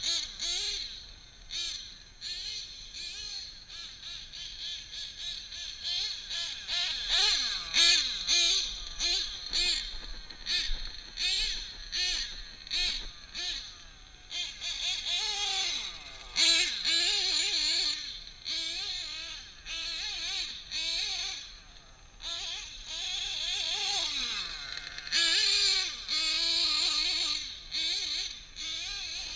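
Novarossi .28 nitro engine of a 1/7 scale RC truggy running at varying throttle, its whiny pitch rising and falling as it revs and backs off, with one long drop in pitch near the end.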